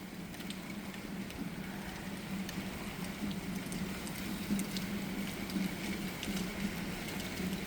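Thunderstorm rain and gusty wind: a steady rush with scattered sharp taps of raindrops, over a steady low hum.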